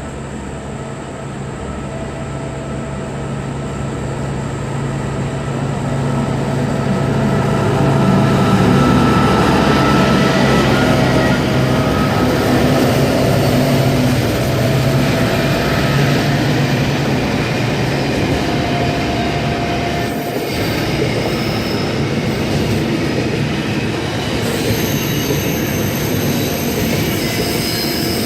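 Electric passenger train, a NSW TrainLink V-set intercity, drawing up alongside the platform. It grows louder over the first several seconds, then holds as a steady rumble with a low motor hum, higher whining tones and wheel squeal.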